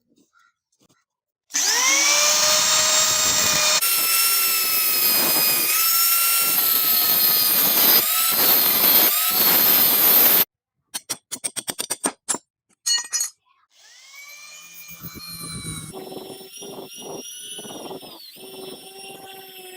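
An electric power tool working steel: its motor whine rises as it spins up, then runs loud and steady in several cut-together stretches. A quick run of rapid clicks follows, then a quieter stretch of the tool running near the end.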